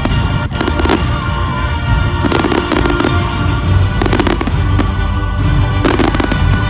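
Fireworks going off in clusters of bangs and crackles, about four times, over loud pop music.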